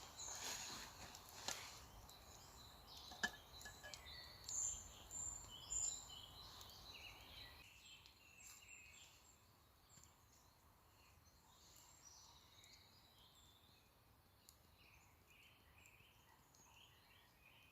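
Faint birdsong from several small birds in woodland, short chirps and phrases throughout. In the first few seconds a few sharp knocks and rustling of handling sound over it.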